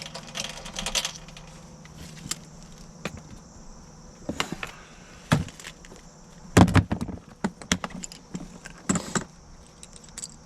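Scattered metallic clicks and clinks of hand tools and fittings being handled, over a steady low hum, with the loudest knocks about two-thirds of the way through.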